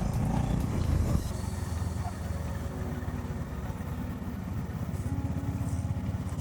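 Motorcycle engine running under way, a steady low pulsing note that gets quieter about a second in.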